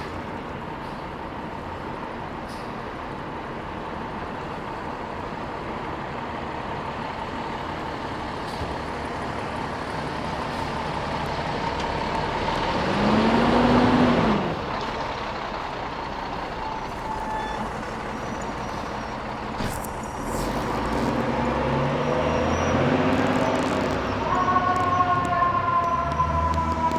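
Fire engine responding with its siren sounding, a steady wailing tone over traffic noise. About halfway in comes a short, low horn blast that bends up and down, the loudest sound; near the end the engine's diesel pulls under load while a siren tone jumps up and slowly falls.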